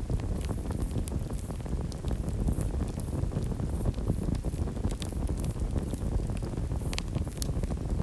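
Wind buffeting the microphone in a steady low rumble, with scattered sharp crackles from a bonfire.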